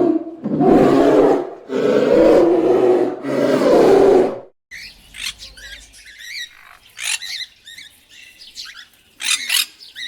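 Tiger roaring four times, each call about a second long. It breaks off sharply about four and a half seconds in, and a series of short bird squawks and chirps follows.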